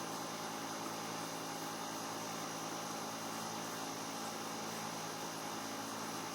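A steady machine hum: several even tones under a constant hiss, holding level with no change.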